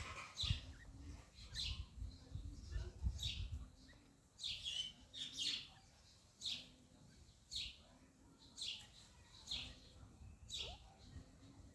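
A bird calling over and over, one short high downward-sweeping call about once a second. A low rumbling noise runs under the first four seconds.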